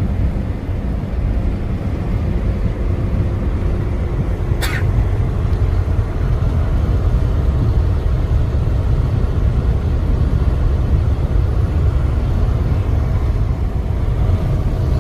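Semi truck running with a steady low engine and road rumble. A single short click sounds about a third of the way in.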